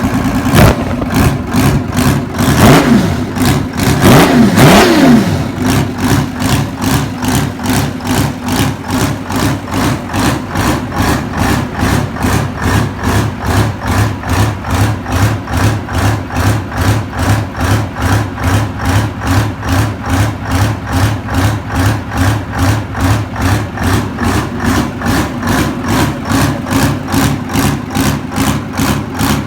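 Detroit Diesel 6V53N two-stroke V6 diesel running after a cold start: revved up and dropped back twice a few seconds in, then settling into a steady, pulsing idle.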